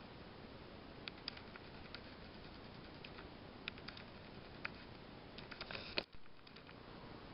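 Faint, scattered light clicks and small rattles over a steady hiss, from tinplate toy trains being handled, with a quick run of clicks ending in one sharper click about six seconds in.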